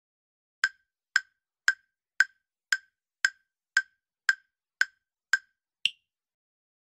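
Countdown timer sound effect: ten short wood-block-like ticks, about two a second, ending in a single higher-pitched tick.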